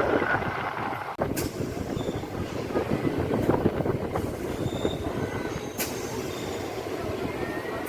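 Local passenger train running on the rails: a steady rumble with a few brief high wheel squeals and two sharp clicks, about a second and a half in and near six seconds in.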